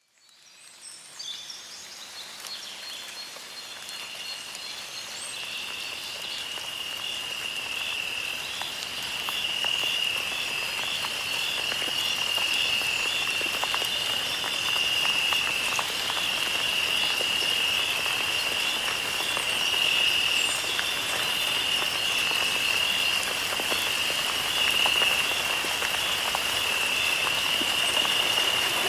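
Running water, growing steadily louder, under a continuous high-pitched pulsing trill of calling animals.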